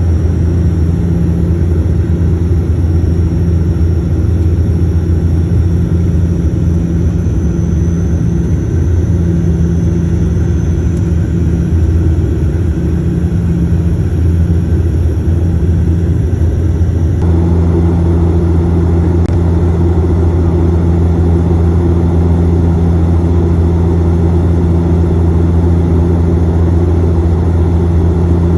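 Aircraft engine noise heard inside the cabin in flight: a loud, steady low drone with a constant hum. The tone shifts slightly about two-thirds of the way through.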